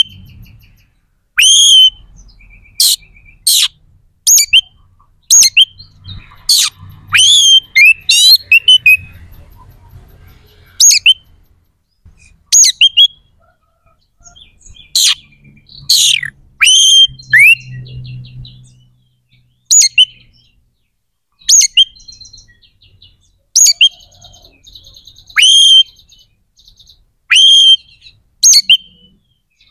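Oriental magpie-robin (kacer) in full, loud song. It sings sharp, clear whistled notes, many sweeping steeply in pitch, in short rapid clusters with brief pauses between them.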